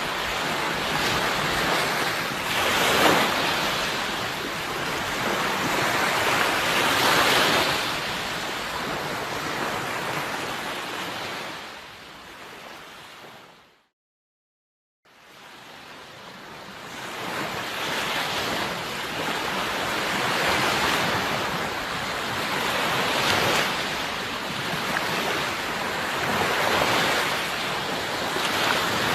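Sea waves washing onto the shore with wind, swelling and easing every few seconds. About halfway through the sound fades out to a second of silence, then fades back in.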